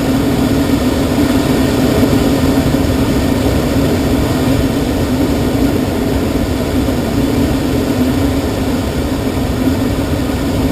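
Steady rush of air around an unpowered glider's cockpit in flight, with a steady low hum under it.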